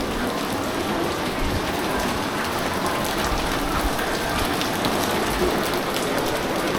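Heavy rain falling steadily and pattering on surfaces, with many small drop ticks.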